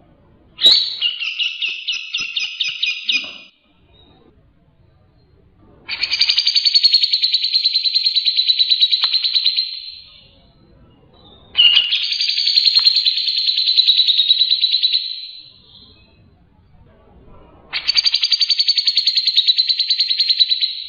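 Cucak jenggot (grey-cheeked bulbul) singing: four long, rapid, chattering trilled phrases, each three to four seconds long, with short pauses between them.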